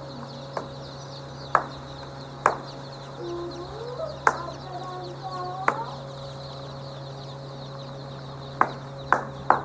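Chickens clucking, with a few short calls that bend in pitch. Sharp taps come at irregular intervals throughout, over a steady low hum.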